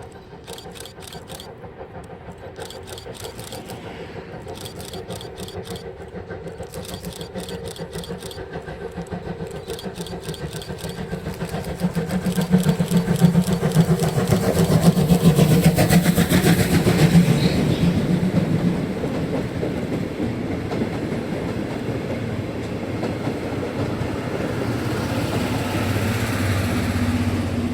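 Chichibu Railway steam locomotive C58 363 and its coaches approaching and passing, its exhaust beats building to a fast rhythm at the loudest point about halfway through, then the coaches rolling by. Bursts of rapid clicking come in the first ten seconds.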